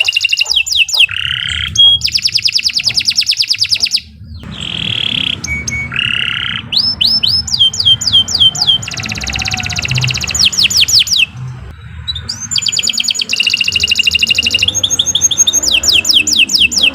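Domestic canary singing a long, fast song: rapid trills of evenly repeated high notes alternating with runs of falling whistled sweeps, broken by short pauses.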